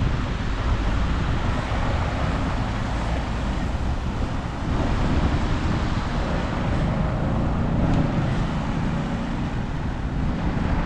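Wind rushing over an action camera's microphone on a moving bicycle, mixed with steady city traffic noise.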